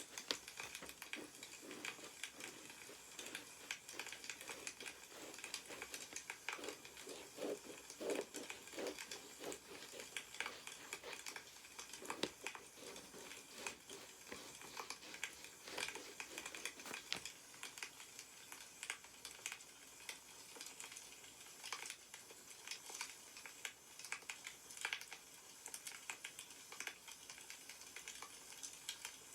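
Wood fire crackling with a steady scatter of small pops, with paper rustling and being handled now and then, louder around a quarter of the way in.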